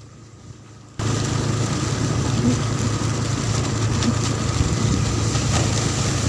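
Motor vehicle engine running steadily with road and wind noise, cutting in abruptly about a second in after a quieter stretch.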